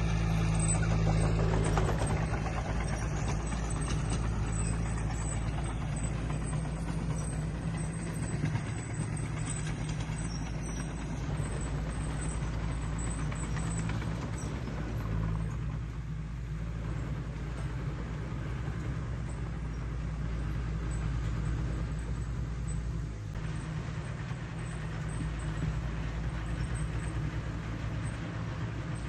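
Diesel engine of heavy earthmoving equipment running steadily under work, a continuous low drone with mechanical clatter above it.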